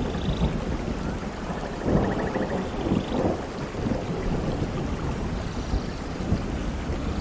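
Steady heavy rain with low rumbling thunder, which swells to a louder peak about two seconds in.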